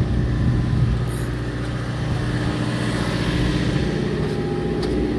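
Fishing boat's engine running steadily, a low hum.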